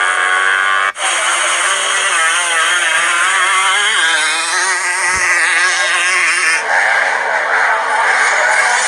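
Motocross dirt bike engines revving, the pitch rising and falling with the throttle as the bikes ride the track. The sound changes abruptly about a second in and again near the end.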